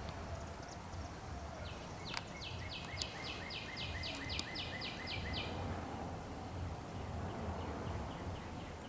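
A bird singing a quick run of about fourteen evenly spaced down-slurred whistled notes, about three or four a second, with a fainter run near the end, over steady outdoor background noise. A few sharp taps or clicks come in the middle.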